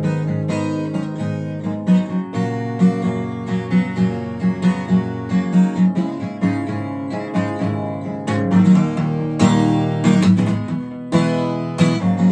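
Acoustic guitar strumming chords in a steady rhythm, playing the instrumental break of the song.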